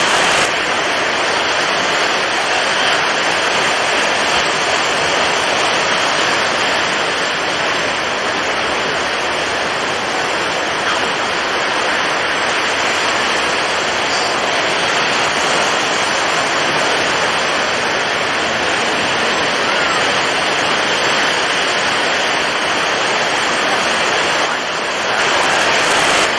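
Storm at sea: strong wind and heavy waves making a loud, steady rushing noise, with a brief dip and a fresh surge near the end.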